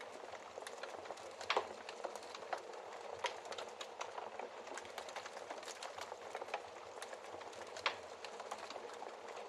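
Wood fire crackling in a fireplace: a steady hiss of small snaps, with a few louder pops about one and a half, three and eight seconds in.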